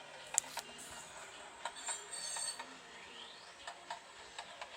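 Sound car decoder in an HO-scale freight car playing rolling sounds through its small speaker: scattered, uneven light clicks like wheels over rail joints, with a brief high squeal about two seconds in.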